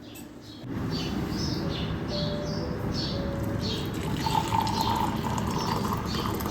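Water running from a tap, switched on just under a second in and running steadily, likely filling a vessel. Small birds chirp over it in quick short falling calls.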